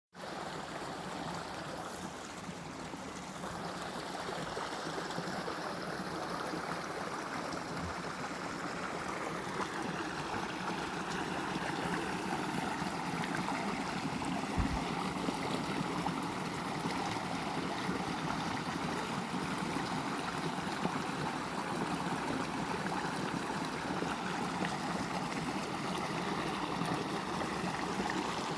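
Steady running water with no break.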